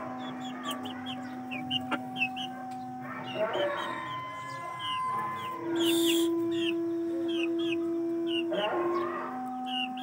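Short bird chirps repeating a few times a second, over long steady held tones that shift pitch every few seconds; the loudest held tone starts a little before the middle and lasts about three seconds.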